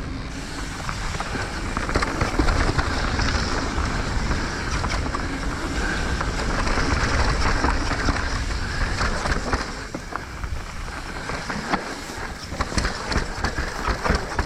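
Mountain bike riding fast down a dirt trail: wind rushing over the microphone and tyres rolling on dirt, with rattling clicks and knocks from the bike over bumps, more frequent near the end.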